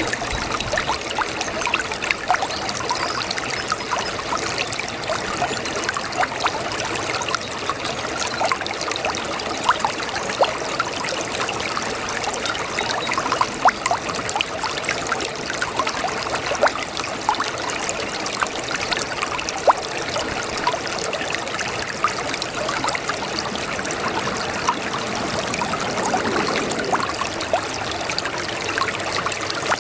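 Brook babbling: a steady rush of running water, dotted with many small, irregular splashes and trickles.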